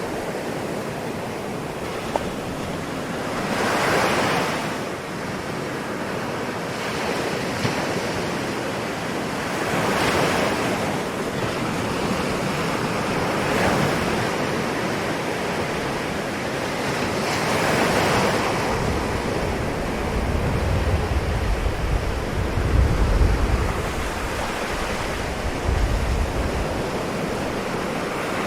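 Ocean waves washing in and breaking, the surf swelling and falling back every few seconds. A low rumble joins in over the second half.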